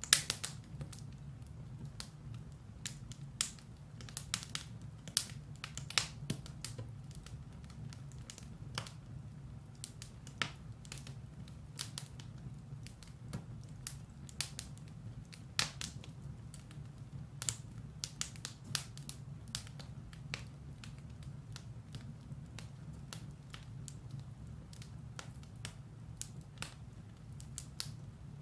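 Firewood burning in a fireplace: irregular sharp crackles and pops, several a second, over a steady low rumble of the fire.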